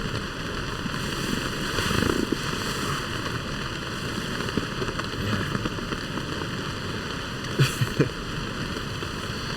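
Heavy rain falling steadily on a small tent, mixed with a heavily flowing stream. Two brief knocks come close together a little before the end.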